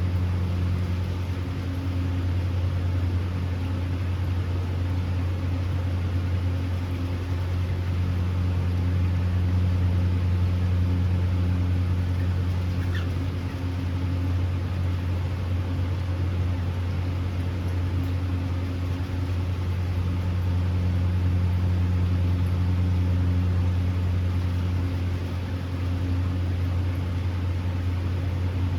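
Steady low mechanical hum, like a motor or fan running, unchanging throughout, with one brief faint high chirp about halfway through.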